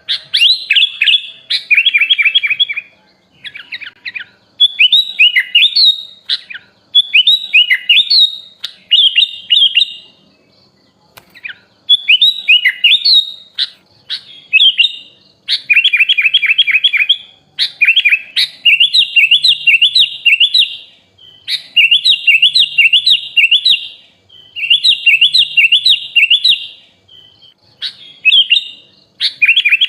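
Sooty-headed bulbul (kutilang) singing: loud, repeated phrases of quick chattering chirps, each a second or two long, with short pauses between them.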